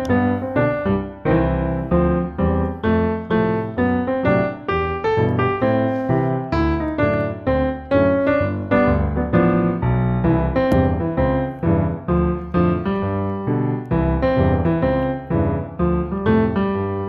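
Background piano music: a steady run of struck notes in a lively, even rhythm.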